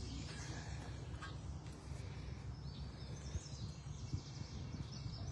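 Wild birds singing faintly in the background, with a curving whistled phrase about three seconds in, over a steady low outdoor rumble.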